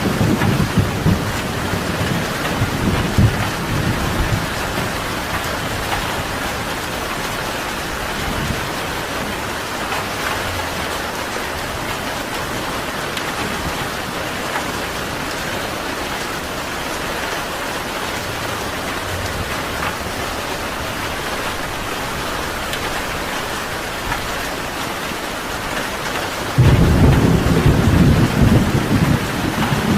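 Steady rain falling with thunder. A low rumble dies away over the first few seconds, and near the end a loud thunderclap breaks in suddenly and rolls on.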